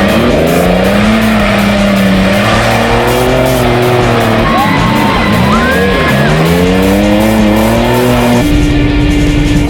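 Engines of old race cars revving up and down as they pass on the track, with a short tire squeal about five seconds in.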